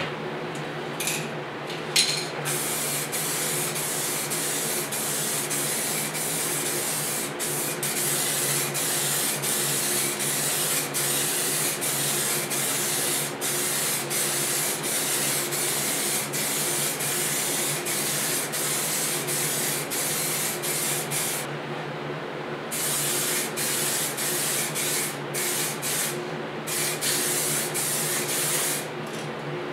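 Paint being sprayed onto a motorcycle fuel tank: a steady spray hiss in long passes, broken by short pauses about two seconds in and again twice near the end.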